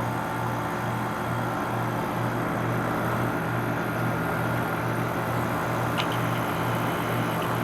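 Carrier Comfort Series 13 SEER 5-ton heat pump outdoor unit running steadily: a low compressor hum under the air noise of the condenser fan. There is a brief faint click about six seconds in.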